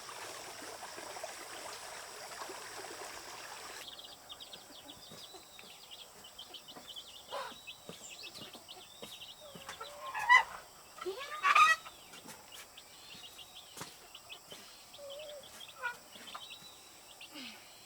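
A steady rushing noise for about four seconds, then chickens: chicks peeping over and over, and two loud calls from an adult chicken a little past halfway.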